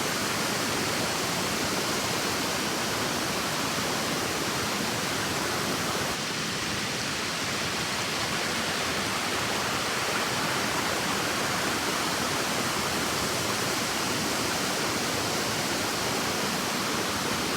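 Waterfall on a river pouring steadily: a loud, even rush of falling water that dulls slightly about six seconds in.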